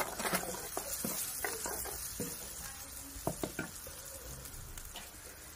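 Onion-tomato masala sizzling in hot oil in a kadhai over a wood fire, while a metal spoon stirs it and clinks against the pan several times. The sizzle is loudest in the first couple of seconds and then eases.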